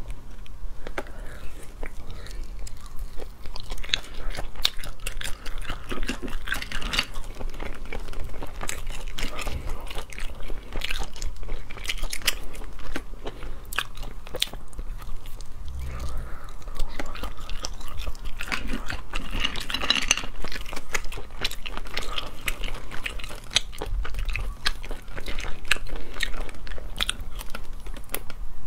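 Close-miked eating sounds: chewing of sea snail meat, with many small clicks and crunches as the shells are handled and the meat is picked out.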